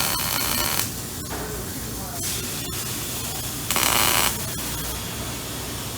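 Welding arc from a cobot welding torch, crackling and hissing steadily. It is louder for the first moment and again in a short half-second burst about four seconds in.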